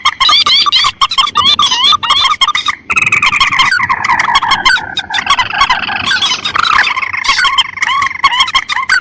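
Bird-lure recording of rice-field rail calls, mandar and tikusan, layered together: a dense, rapid string of repeated calls. A long run of calls starts about three seconds in and slowly falls in pitch for about three seconds.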